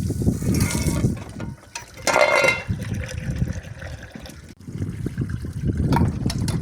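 Water running and splashing over dishes being hand-washed, with a brief ringing clatter of dishes about two seconds in and a short knock near the end.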